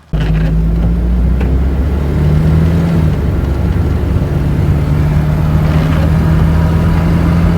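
Van engine running under way, with road noise: a loud, steady low hum whose note rises for a second or so about two seconds in, then settles.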